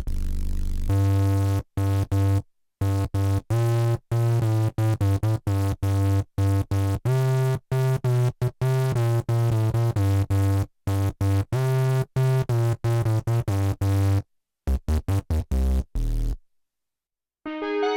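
Arturia MiniFreak synthesizer playing a preset: a run of short, punchy notes with a strong bass, each stopping abruptly and changing in pitch from note to note. After about a second of silence near the end, a new sustained sound begins.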